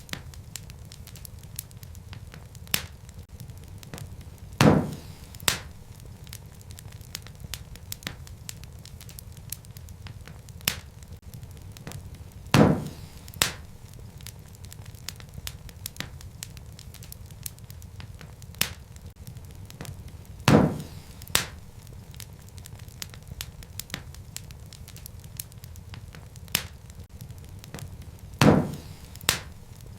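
Wood fire crackling with a steady low rumble and a scatter of small snaps. Four louder pops come about every eight seconds, each followed by a softer one.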